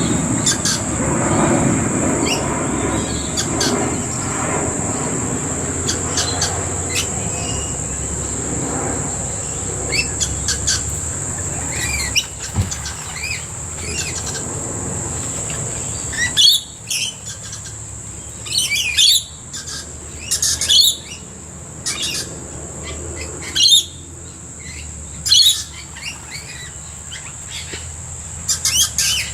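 Wild birds calling in short, sharp, loud bursts, most of them from about halfway in, over a steady high insect drone. A low rumble fades away in the first half.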